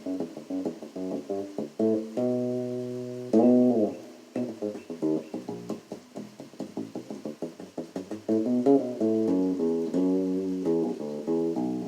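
Solo bass guitar playing a line of short, percussive dead notes mixed with some sustained notes, including a note held about two seconds in that glides in pitch just before the four-second mark. The notes are deadened by muting the strings with a fret wrap and with the arm laid over the bridge.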